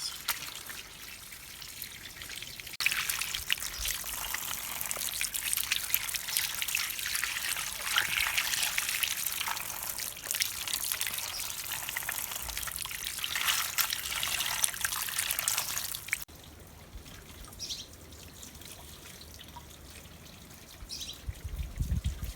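Water running and trickling steadily. It starts abruptly about three seconds in and stops suddenly about sixteen seconds in, with a fainter hiss on either side.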